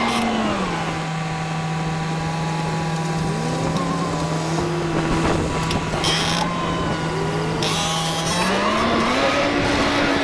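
Tractor engine running a Massey Ferguson 1840 square baler in the field. The engine's pitch drops about half a second in, holds steady at the lower pitch, then rises back near the end.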